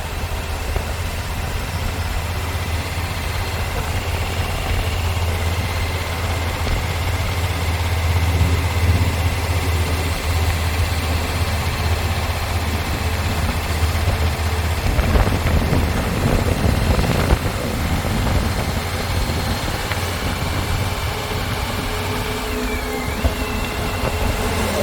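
An engine running steadily with a low hum and rumble; the sound changes somewhat about fifteen seconds in.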